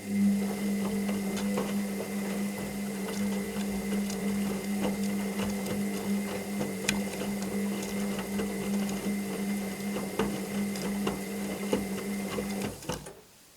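Washing machine motor turning the drum: a steady hum with many small rattling clicks, which stops abruptly near the end.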